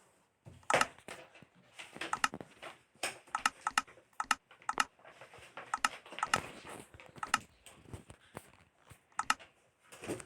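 Irregular sharp clicks and light knocks, a couple of dozen over several seconds with no steady rhythm, like small hard objects being handled or tapped.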